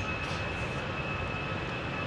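Airbus A320-214's CFM56-5B jet engines running at takeoff power: a steady rumble and rush with a high fan whine held on one pitch.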